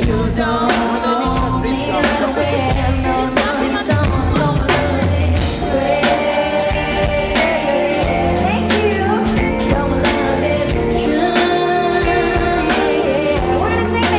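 Live pop band playing with a regular drum beat, with singing over the music.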